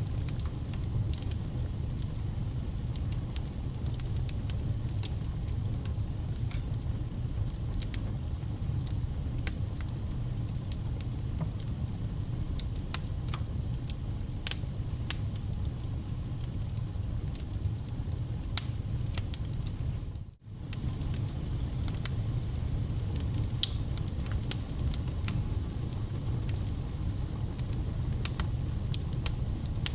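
Wood fire burning: a steady low roar with irregular crackles and pops from the burning logs. The sound drops out for a split second about two-thirds of the way through.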